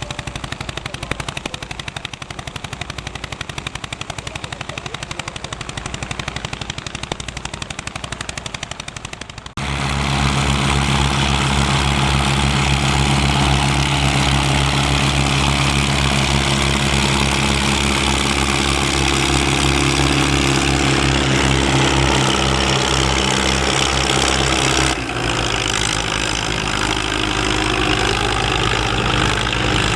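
Vintage tractor engines working under load. First a rapid, even run of sharp exhaust pops like a machine gun; then, after a sudden change, a louder, steady engine note, which changes again abruptly near the end to a different engine.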